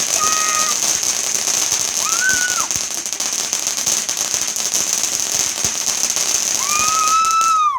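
A garden firework going off with a continuous dense crackling hiss. A few short tones that rise and fall are heard over it, about a second apart at the start, and then a longer one near the end.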